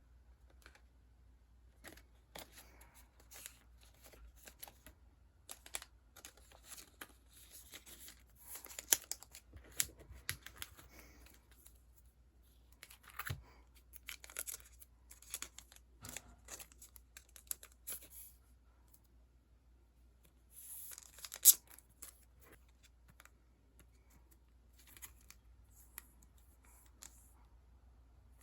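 Sticker sheets and their packaging being handled: intermittent crinkling, rustling and tearing with small taps and clicks. The sharpest crackle comes about three quarters of the way through.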